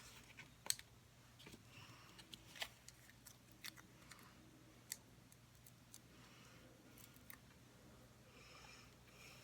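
Near silence with sparse light clicks and taps of paper and craft supplies being handled, the sharpest a bit under a second in, over a low steady hum.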